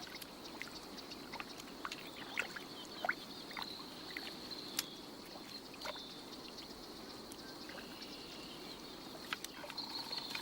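Water trickling and splashing at a beaver dam as beavers work sticks, twigs and mud into it, with many short sharp clicks and snaps scattered throughout. A steady high-pitched tone runs underneath.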